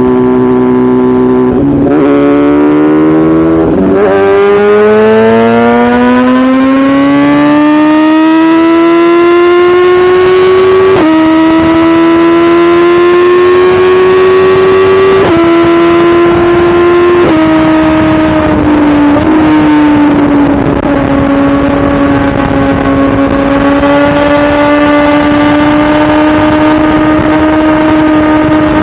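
2017 BMW S1000RR's inline-four engine accelerating hard through the gears: after a short dip the note climbs steadily, drops sharply at three quick upshifts, then settles to a steady cruise in the last third. Wind rush runs under it.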